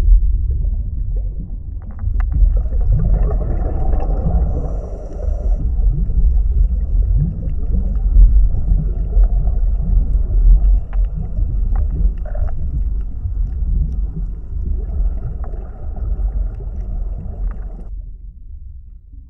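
Deep, continuous underwater rumble with a fainter hiss over it and a few scattered clicks; the upper hiss stops near the end.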